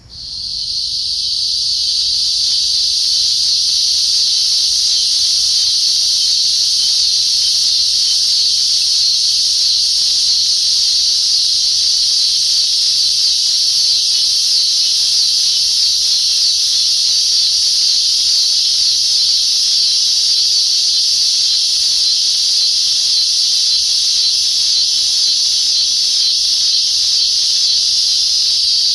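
Cicada buzzing, a loud unbroken high-pitched drone that swells in over the first second or two and then holds steady.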